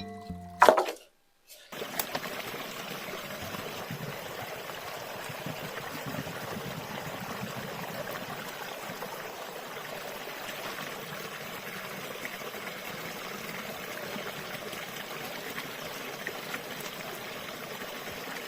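A sharp knock under a second in, then a steady rush of running water.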